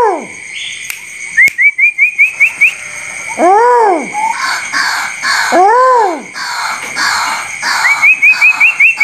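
A tuwu bird calling: two drawn-out, arching calls that rise and fall in pitch, about two seconds apart. Twice there is a quick run of about seven short rising chirps, and a steady high insect trill runs underneath.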